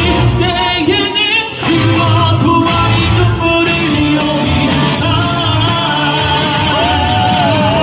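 A singer performing a song over amplified band accompaniment, the sung melody wavering with vibrato and ending on a long held note.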